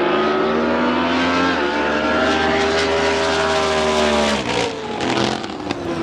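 Drag boat engine running loudly with a steady pitch that dips briefly about a second and a half in, then falls off about four and a half seconds in.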